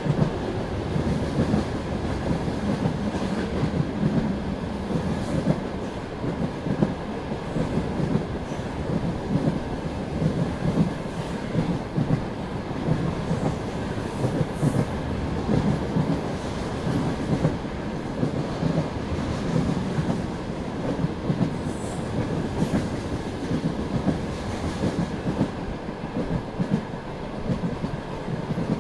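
Passenger train carriage running along the track: a steady rumble of wheels on rails, with the clickety-clack of the wheels over the rail joints.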